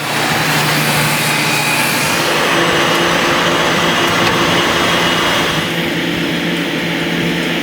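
Loud machinery running steadily: an engine-like hum under a broad rushing noise.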